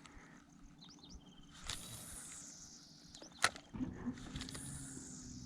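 A cast with a fishing rod and reel: line hisses off the spool for about a second, falling in pitch, then a sharp click. After the click the reel is cranked with a steady whir to retrieve the swimbait.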